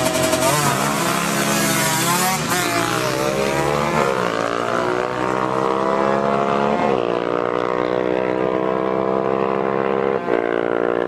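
Two-stroke motorcycle engines running hard at high revs in a drag race. The pitch climbs, then drops sharply, several times.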